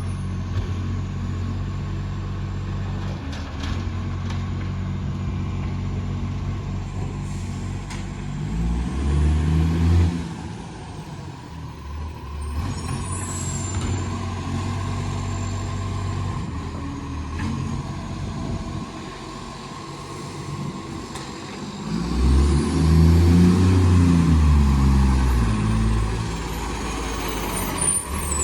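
Side-loader garbage truck's diesel engine, with a massive exhaust leak, running and revving up twice: briefly about nine seconds in, then louder for several seconds near the end. A high whine rises and falls with the revs, with a few short clunks and hisses.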